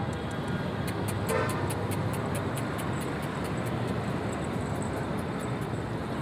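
Steady rumbling background noise of the kind road traffic makes, with a rapid run of faint ticks from about a second in to near the end.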